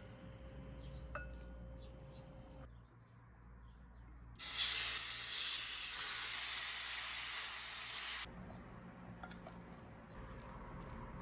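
Loud steady sizzling hiss of food frying in a hot pan, cutting in suddenly a little under halfway through and stopping abruptly about four seconds later, between faint kitchen handling sounds.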